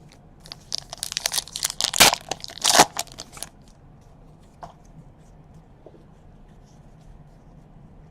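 Foil trading-card pack wrapper being torn open and crinkled: a burst of crackling and tearing about three seconds long, then a few faint ticks.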